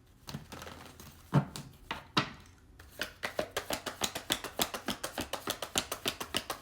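A deck of reading cards being handled and shuffled. A few separate knocks come first, then from about three seconds in there is a quick, even run of light clicks, several a second.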